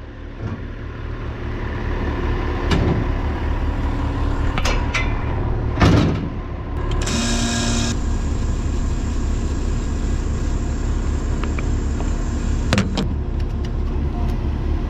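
Diesel engine idling with a steady low rumble, with several metallic knocks and clunks, the loudest about six seconds in, and a short hiss about seven seconds in.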